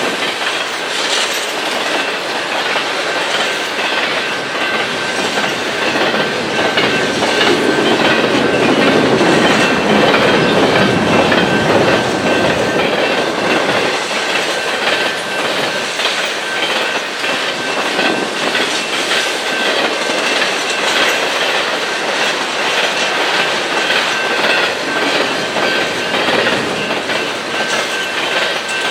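A train rolling past, its wheels clicking steadily over the rail joints, with a thin high whine from the wheels running underneath. It grows louder for a few seconds a little before the middle, then settles back to a steady level.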